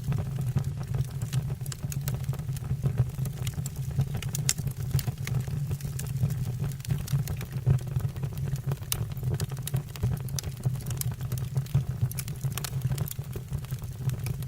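Wood fire in a fireplace crackling: many irregular sharp pops and snaps of burning logs over a steady low rumble.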